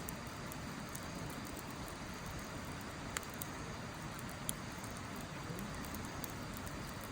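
Wood fire burning in a Snow Peak steel fire pit, with sparse crackles and two sharper pops about three and four and a half seconds in, over a steady rushing hiss.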